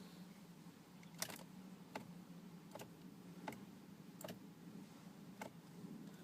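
Faint, evenly spaced ticks, about one every three-quarters of a second, over a low steady hum.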